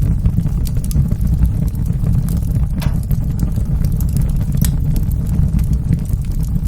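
Wood fire burning in a fireplace: a steady low rumble of flames with scattered sharp crackles and pops, the most distinct about three and four and a half seconds in.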